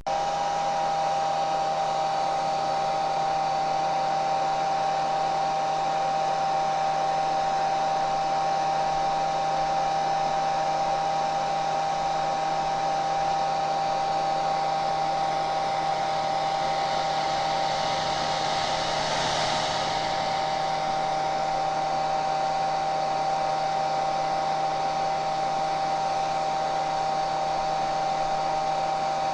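Hair dryer running steadily: a rush of blown air over a constant motor whine and low hum. The airy hiss swells briefly about two-thirds of the way through.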